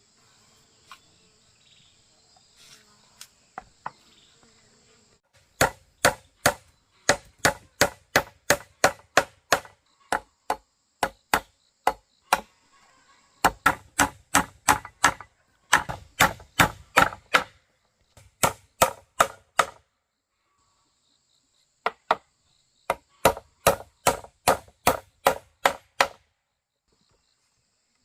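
A hand tool striking wood in runs of sharp knocks, about three a second, broken by short pauses. Insects buzz steadily for the first few seconds and again in the gaps.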